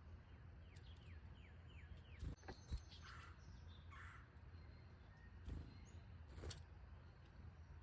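Faint wild birds calling outdoors: a quick run of about six short downward-slurred notes about a second in, then a few harsher calls, with several sharp clicks scattered through.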